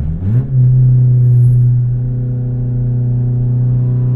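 XV20 Toyota Camry engine pulling under acceleration through a broken, leaking exhaust, so its note is open and unmuffled. The pitch climbs quickly about half a second in, then holds steady and loud.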